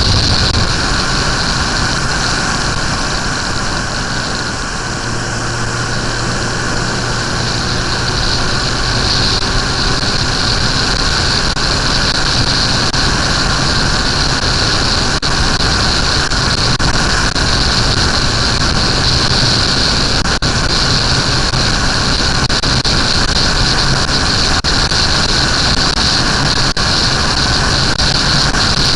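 Suzuki GSX-R 1100's inline-four engine running steadily while riding, under a loud, steady rushing noise.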